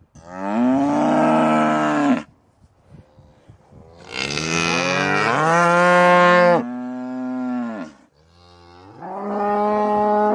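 Cow mooing: three long moos, the middle one the longest.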